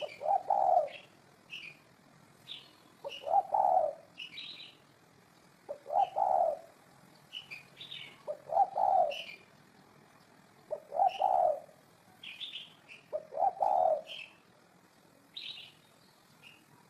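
Spotted dove cooing, six cooing phrases about every two and a half seconds, while other birds chirp at a higher pitch between them.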